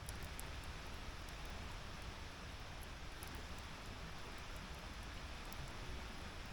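Wood fire burning in a fire pit: a soft, steady hiss with faint, scattered crackles.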